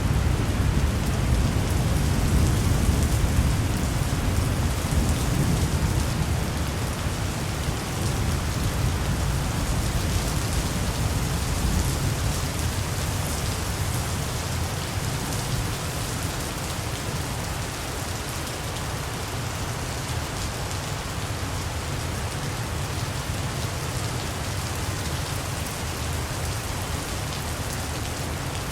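Steady, heavy rain falling, with a low rumble of distant thunder rolling through the first several seconds and then fading away.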